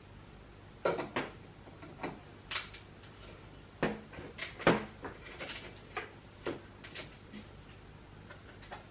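Irregular light clicks, knocks and clinks of tools and metal parts being handled and set down, the sharpest about a second in and midway through.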